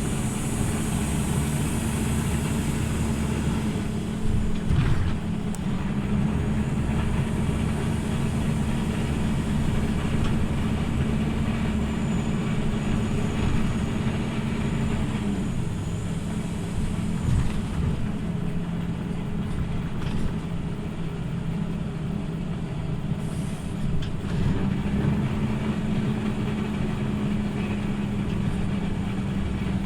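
Scania OmniLink CL94UB city bus under way, heard from inside: its engine runs steadily, drops in pitch about halfway through and rises again near the end as the bus changes speed. A few brief knocks and rattles come through.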